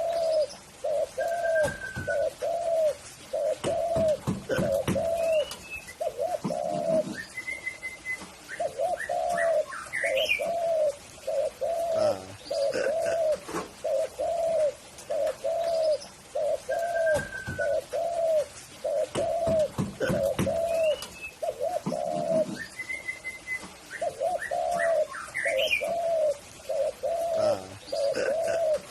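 Tekukur (spotted dove) cooing: a long series of low, rounded coos, about one every three quarters of a second, in runs broken by short pauses. Faint higher chirps of other small birds come in now and then.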